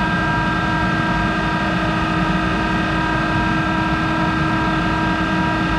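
Monarch 10ee metal lathe running steadily: a constant machine hum carrying several high, steady whine tones.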